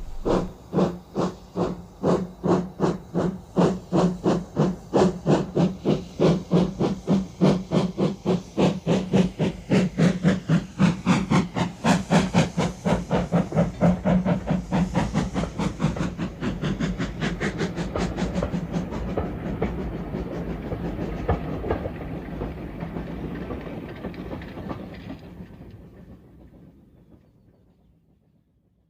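Steam locomotive chuffing away, its puffs starting at about two a second and quickening until they run together, then fading out near the end.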